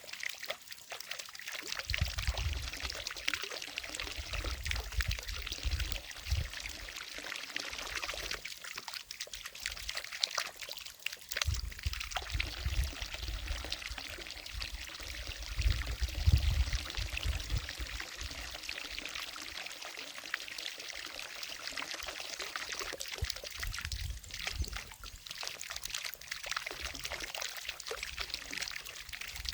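Water from a fountain falling into a lake: a steady pouring splash, with a low rumble that comes and goes every few seconds.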